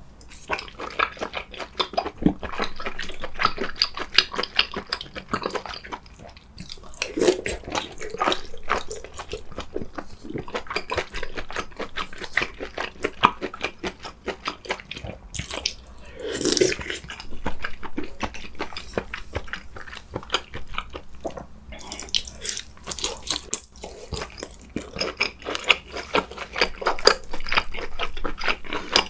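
Close-miked mukbang eating sounds: wet chewing and mouth smacking as a man eats soft rice and stew, a dense run of small wet clicks and squelches.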